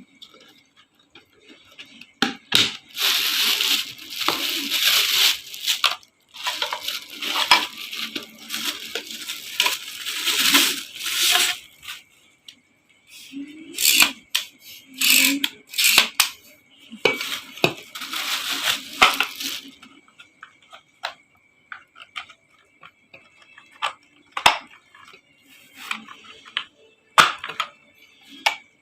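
Dishes and cutlery clattering in several bouts of handling, as in washing up, then a few separate sharp clinks near the end.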